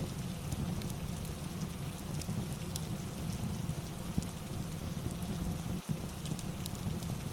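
Steady rain with a low rumble and scattered sharp ticks, with a brief dip in level just before six seconds in.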